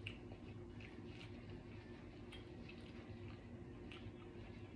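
Faint wet mouth clicks and smacks of chewing, scattered irregularly, over a steady low hum.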